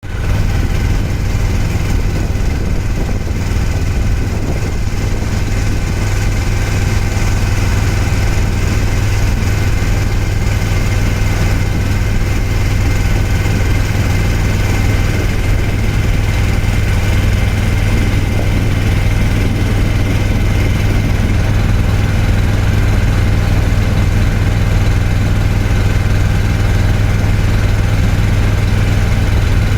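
Boat engine running steadily, a constant low drone with a strong hum that holds an even pitch and level.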